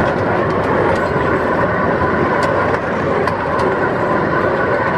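Miniature amusement-park train running along its track, heard from on board: a steady rumble of wheels and running gear, with a faint hum and scattered light clicks.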